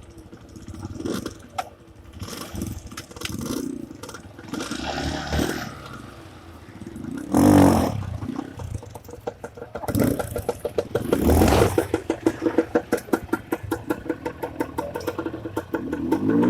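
Honda CRF150 dirt bike's single-cylinder engine running unevenly, with two loud surges about seven and eleven seconds in. After about twelve seconds it settles into a fast, even chugging.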